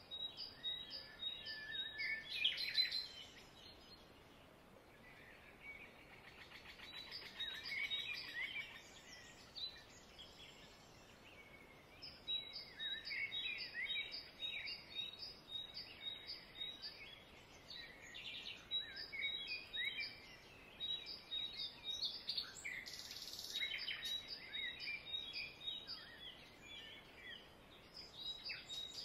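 Several birds chirping and singing, faint. One bird repeats a short high note about twice a second in runs lasting several seconds, among other scattered chirps and warbles.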